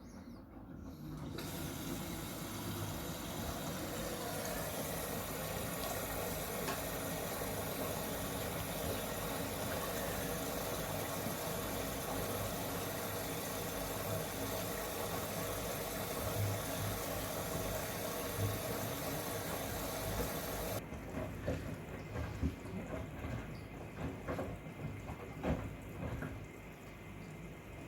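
Miele WCR 870 washing machine taking in water through its inlet valve: a steady rushing hiss of filling water that cuts off suddenly about two-thirds of the way through, leaving irregular soft knocks and sloshing from the drum.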